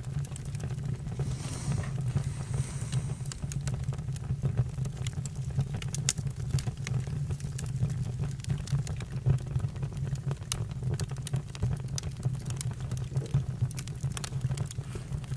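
Campfire crackling: scattered sharp pops and snaps over a steady low rumble of the burning fire.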